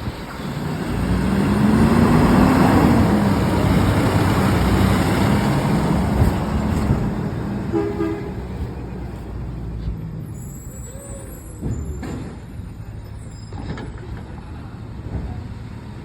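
Garbage truck engine revving up and pulling away, loudest over the first few seconds and then fading as it drives off. A short high tone sounds about eight seconds in.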